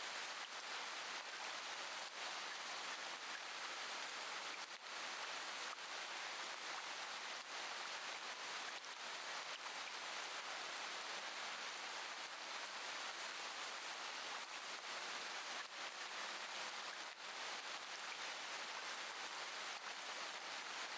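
Steady rain, an even hiss of falling drops with faint scattered pattering.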